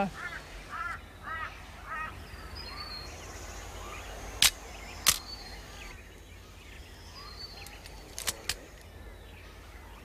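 Rainforest birds calling: a few short arching whistled notes at first, then short high chirps every few seconds. Two pairs of sharp cracks come near the middle and again later.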